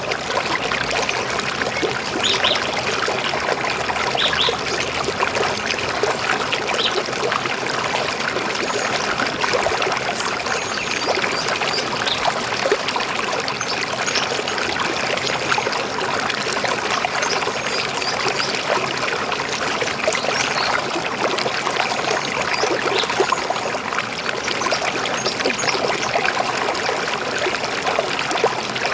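River water flowing steadily, a continuous gurgling rush with no pauses.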